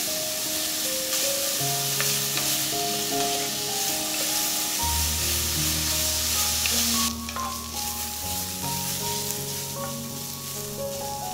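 Julienned radish sizzling as it stir-fries in a cast-iron pot, a wooden spoon stirring through it; the sizzle drops off about seven seconds in.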